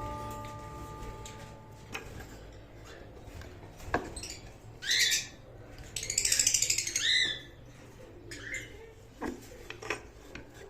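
Lovebirds giving harsh, squawking calls: a short call about halfway through, a longer rasping one just after, and a shorter one near the end, with a few sharp clicks or knocks in between.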